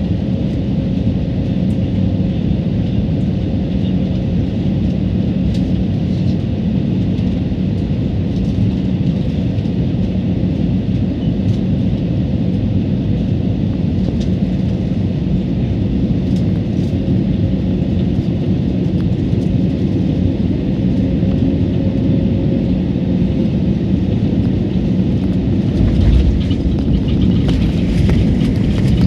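Airliner cabin noise: a loud, steady low rumble of engines and airflow with an even hum, and a short low thump about 26 seconds in.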